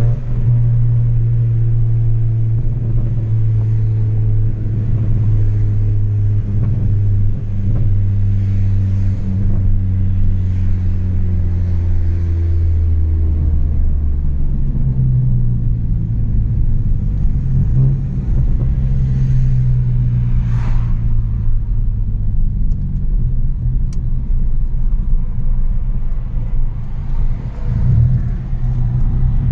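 Chevrolet Astra 2.0 four-cylinder with a straight-pipe exhaust, driving under way. A steady exhaust drone eases off slightly, drops about halfway through, then picks up again and rises and falls with the throttle.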